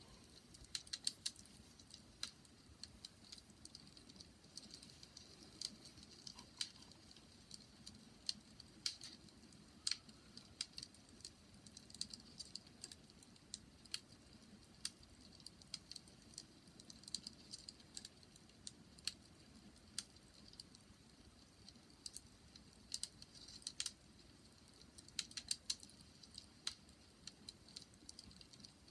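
Wood fire crackling faintly: irregular sharp pops and snaps over a soft low rumble.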